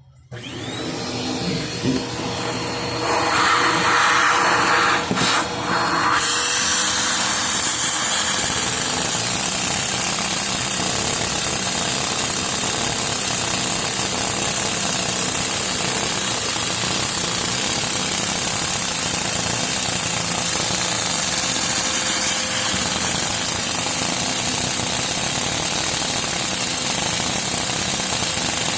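LEGO single-cylinder vacuum engine starting up over the first few seconds, then running fast and steadily with a dense plastic rattle, along with the steady whir of its vacuum supply.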